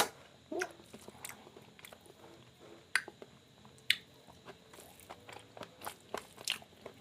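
Close-miked eating: wet mouth clicks and chewing of soft rice and mashed potato, in scattered short sharp smacks with quieter ticks between.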